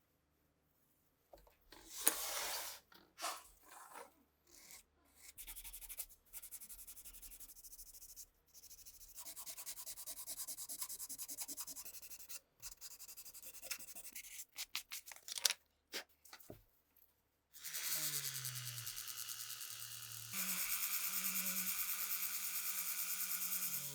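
Hand rubbing and sanding on old pistol parts in irregular scraping strokes, with a few sharp clicks about two-thirds of the way through. Near the end a steady pitched hum takes over and steps up in pitch partway.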